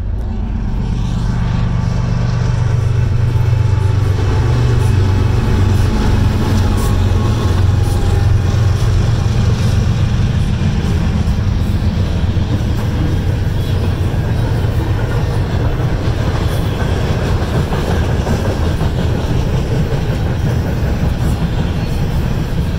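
A train with its locomotive passing close by: a loud, steady low rumble that builds over the first few seconds and then holds.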